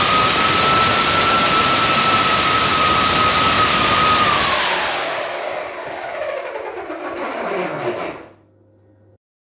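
A 3D-printed 400 mm gear-driven electric ducted fan running at high power with a loud steady whine over rushing air, then spooling down about four seconds in, its pitch falling steadily until it dies away.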